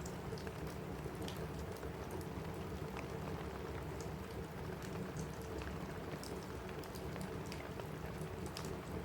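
Steady rain on a cabin roof mixed with a crackling wood fire: an even hiss with scattered sharp pops and ticks.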